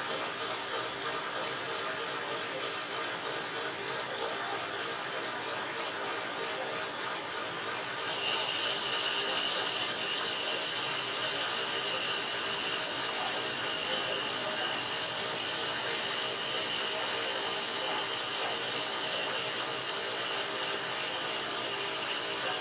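A machine running steadily; about eight seconds in, a steady high whine joins it and holds.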